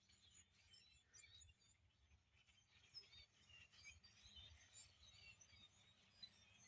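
Faint chirping of many birds, with short calls overlapping throughout.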